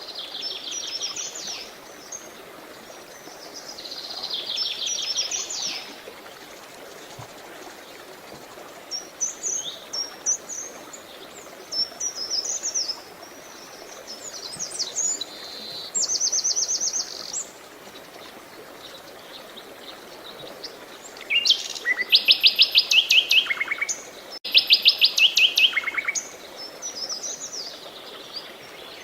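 Songbirds singing in a series of short phrases of rapid, evenly repeated trilled notes, the loudest two near the end, over a steady rush of flowing water.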